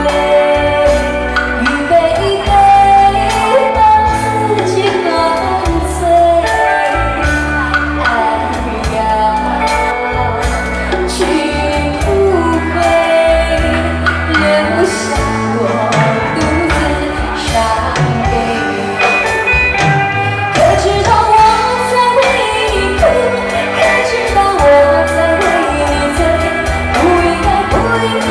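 A woman singing a Mandarin pop ballad over a loud backing track with a steady beat, through a stage PA.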